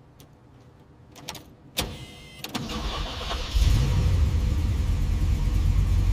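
Pontiac Trans Am KITT replica's engine starting: a few clicks and a sharp knock, then a short crank from about two and a half seconds in, and it catches about a second later and runs loud and steady.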